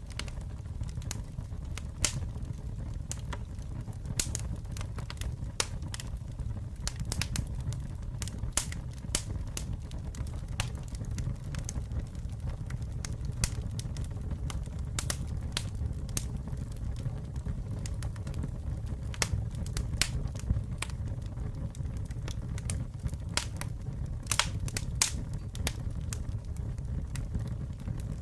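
Wood campfire burning: a steady low rumble of flames under frequent, irregular sharp crackles and pops from the burning wood.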